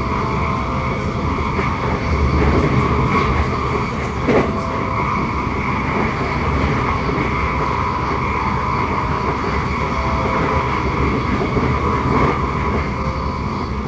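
Passenger train running at speed, heard from inside the carriage: a steady rumble of the wheels on the track with a steady high whine over it, and a single knock about four seconds in.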